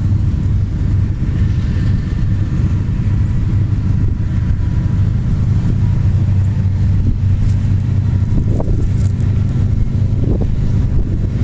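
Freight train passing close by, with the steady low drone of its diesel locomotive engines. A few short metallic squeals and clicks from the wheels on the rails come in the last few seconds.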